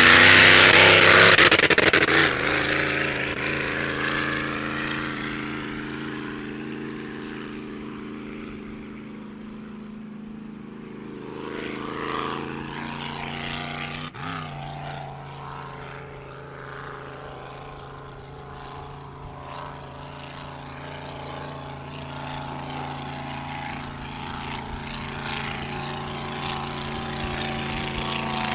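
Racing hydroplane engine at high speed, loud as the boat passes close, then dropping away to a steady distant drone as it runs down the course. It swells again briefly about twelve seconds in and grows slowly louder near the end as the boat comes back around.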